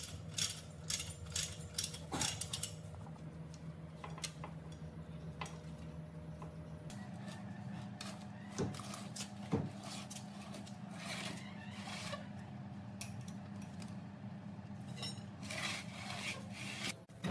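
Ratcheting clicks of a manual chain hoist, about three a second, for the first couple of seconds. After that come scattered light metallic clinks and knocks over a low steady hum.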